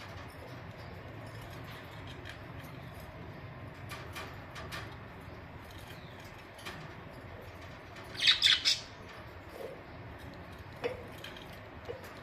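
Pet budgerigars: scattered faint clicks and soft chirps, then a short loud burst of three or four sharp, high chirps about eight seconds in.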